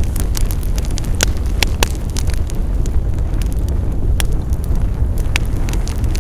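Wood fire crackling, with irregular sharp pops, a few louder than the rest, over a steady low rumble of the burning fire.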